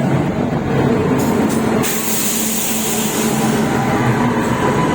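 Train noise: a steady rumble with a few sharp clicks, and a high hiss from about two seconds in that lasts over a second.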